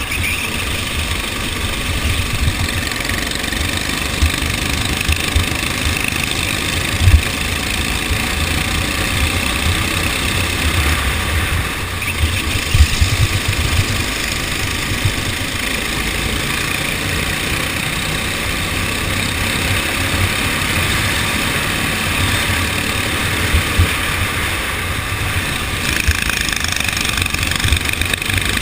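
Go-kart engine running steadily during a kart race, a continuous loud engine noise with a heavy rumble, broken by a sharp thump about seven seconds in and another about thirteen seconds in.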